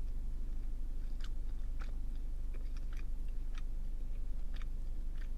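A person chewing a mouthful of honey butter chicken biscuit, with irregular soft mouth clicks about once or twice a second over a steady low hum.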